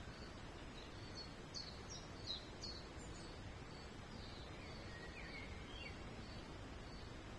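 Small songbirds chirping: a quick run of short, high, falling chirps in the first few seconds, then a few lower chirps past the middle. Throughout, a faint high note repeats at an even pace over a steady background hiss.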